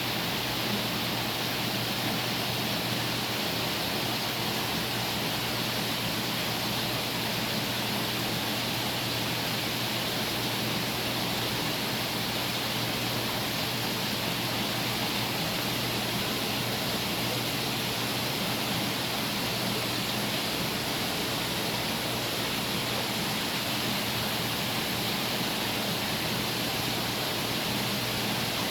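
Steady rushing hiss of circulating water and pumps in a saltwater aquarium system, with a low steady hum underneath.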